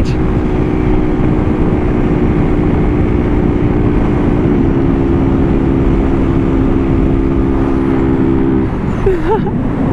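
Honda CG Start's single-cylinder engine running at a steady cruise through a cheap aftermarket exhaust, with heavy wind noise from riding at speed. The engine note wavers and settles slightly lower about four and a half seconds in, then fades out near the end.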